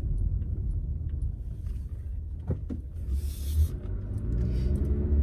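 A car's low engine and road rumble heard from inside the cabin while driving, with a brief click and a short hiss near the middle, then the engine note rising as the car speeds up.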